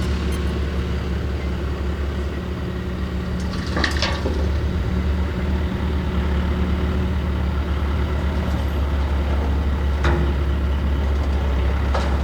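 Backhoe's diesel engine running steadily, with a few brief knocks about 4, 10 and 12 seconds in.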